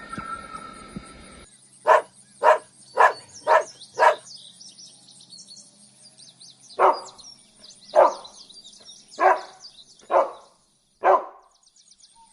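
Canine barking: a quick run of five sharp barks, then five more spaced about a second apart, with small birds chirping behind.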